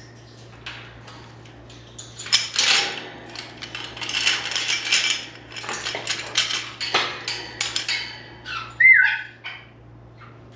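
Quick clicking, clattering and scraping of hard objects in an African grey parrot's cage, busiest from about two seconds in, followed near the end by one short whistle-like call from the parrot.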